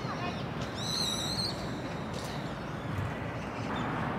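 Steady outdoor background hum of a city park, with one short, high, wavering bird call about a second in.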